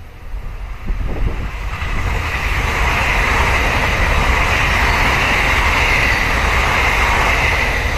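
Taiwan Railways electric multiple unit train passing close by at speed. Its wheels run on the rails in a steady loud rush over a low rumble, rising as it arrives about a second in.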